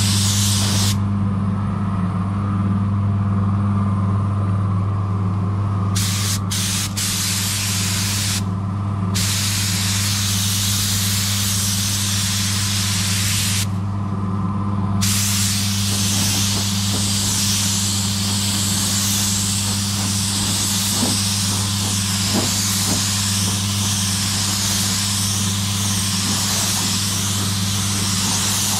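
Spray gun hissing as clear coat is sprayed on a van's bodywork, the trigger let off for a few seconds three times in the first half. A steady low hum runs underneath.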